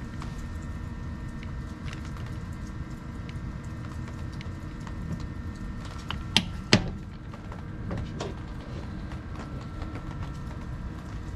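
Small clicks and knocks of chainsaw parts being handled during disassembly, with two sharp clicks a little over halfway through, over a steady low background noise.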